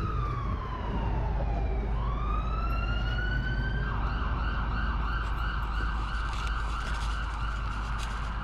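Emergency vehicle siren: a wail that falls in pitch and then rises again, switching about four seconds in to a fast warbling yelp, over a steady low rumble.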